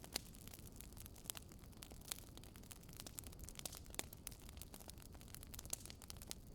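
Wood fire burning in a fireplace, with logs crackling and popping in quick, irregular clicks over a low, steady rumble.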